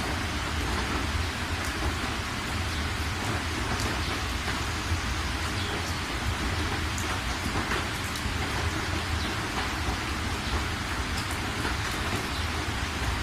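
Steady rain with scattered individual drops ticking, over a constant low rumble.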